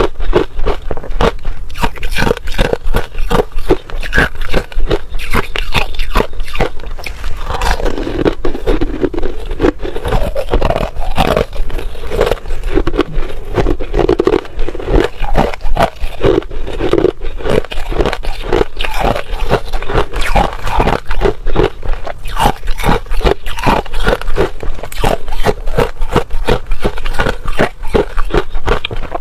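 Hard ice being bitten and chewed close to the microphone: a dense, rapid run of sharp crunches and cracks.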